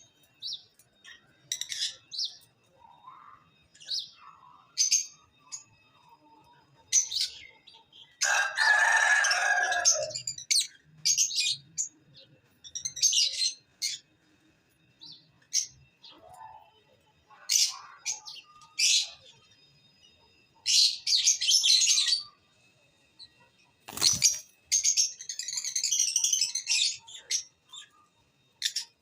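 Pet love birds chirping in short, sharp bursts and runs of chatter, with a louder harsh squawk about nine seconds in. A single sharp knock sounds near the end.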